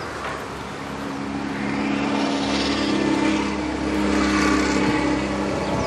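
A car engine running, a steady hum with a hiss that swells over a couple of seconds and then holds.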